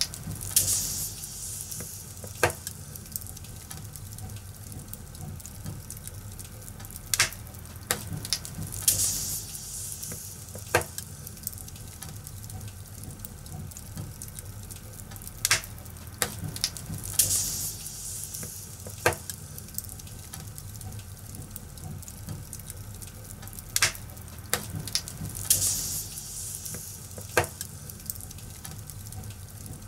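Wood fire crackling: a steady low rustle with sharp pops every second or two, and brief hissing flare-ups that come about every eight seconds.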